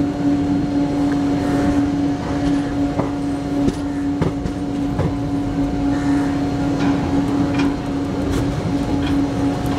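Passenger train running, heard from an open coach doorway: steady noise of wheels on rail with a continuous hum, broken by a few irregular clicks as the wheels pass rail joints and points.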